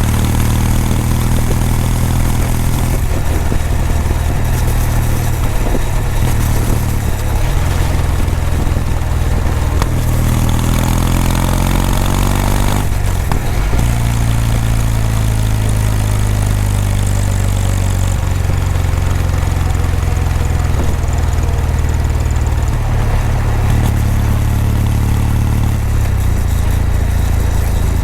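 Exhaust note of a Kawasaki W800's air-cooled parallel-twin engine while riding. The pitch climbs with the throttle, breaks off briefly about halfway through as with a gear change, then sinks slowly as the bike rolls off.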